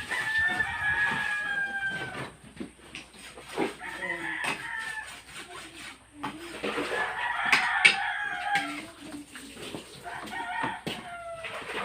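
Rooster crowing, about four long crows, each sliding slightly down in pitch.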